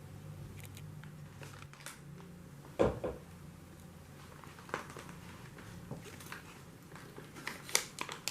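A cat crunching dry pillow-shaped treats: scattered small clicks and crunches, with a louder knock about three seconds in and a quicker run of sharp clicks near the end.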